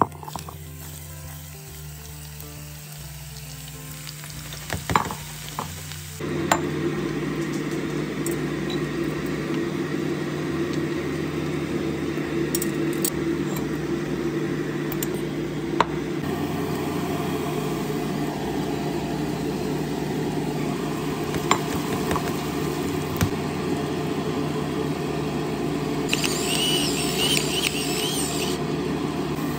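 Diced onion and then diced mushrooms sizzling steadily in hot oil in a frying pan as they sauté, starting about six seconds in, with a few knocks of a wooden spatula. Soft background music runs underneath. Near the end there is a brief grinding as pepper is ground over the pan.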